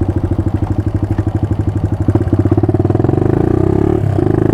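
Suzuki DR200 dirt bike's single-cylinder four-stroke engine running under way at low speed, a steady rapid pulse, dipping briefly near the end.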